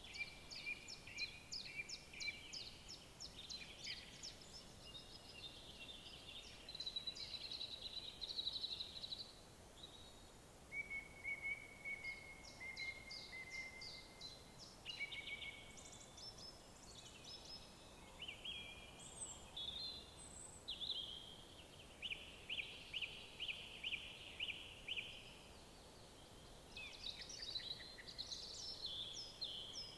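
Songbirds singing one after another: fast trills of rapidly repeated notes, thin high whistles and short chirps, over a faint steady background hiss.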